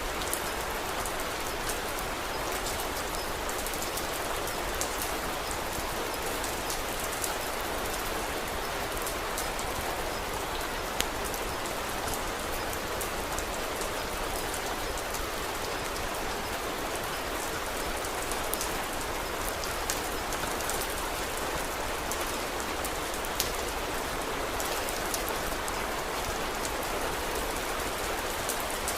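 Steady rain falling, with scattered sharp clicks dotted through it.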